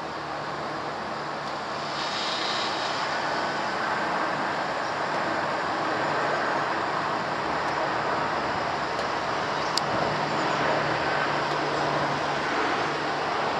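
Boeing 747-400 jet engines heard from the ground as the airliner flies over low on approach: a steady rushing jet noise that grows gradually louder, over street traffic with a steady low hum and one short click.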